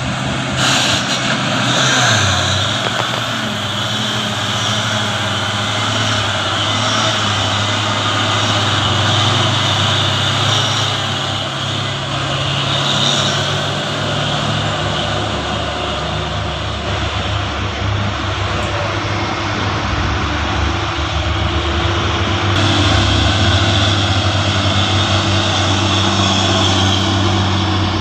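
Truck diesel engine running steadily under load, a continuous drone whose pitch shifts a few times, near the start and again past the middle.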